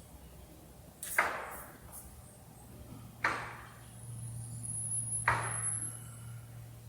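Three sharp knocks about two seconds apart, each ringing briefly, over a steady low hum.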